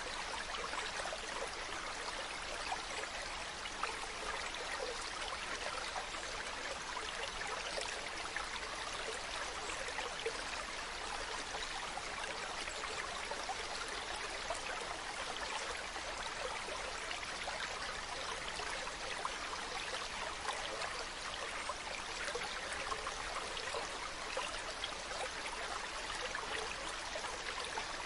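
Mountain stream running steadily: an even rush of flowing water with fine trickling detail.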